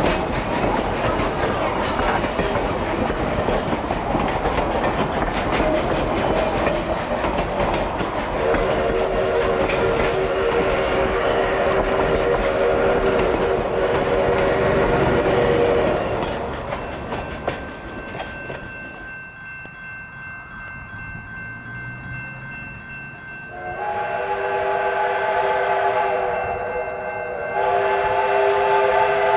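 Narrow-gauge steam locomotive running with heavy rumble and rail clatter, then its chime steam whistle sounding a long blast of several pitches at once. After a quieter stretch come two further whistle blasts, the last one starting near the end.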